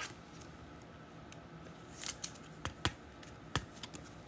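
Faint handling of trading cards and pack wrappers: a brief rustle about two seconds in, then a few sharp clicks.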